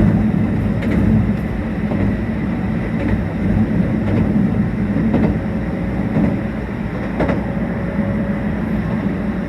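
Meitetsu 1800 series electric train running, heard from inside the car: a steady rumble of wheels on rail with occasional knocks, likely at rail joints. A faint steady whine comes in about three-quarters of the way through.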